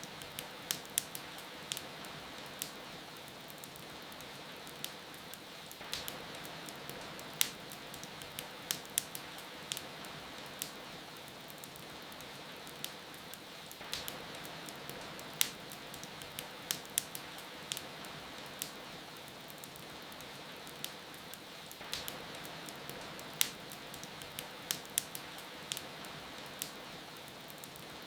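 Steady rain hiss with the irregular sharp crackles and pops of a wood fire in a fireplace.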